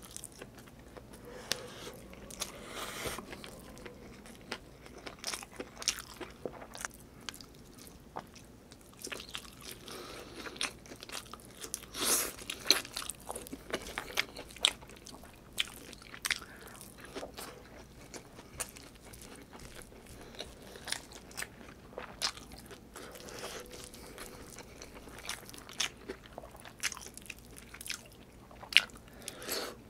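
Close-miked chewing and mouth smacks of a man eating chicken adobo and rice by hand: a steady run of irregular small clicks and smacks, with a louder cluster of bites about twelve seconds in.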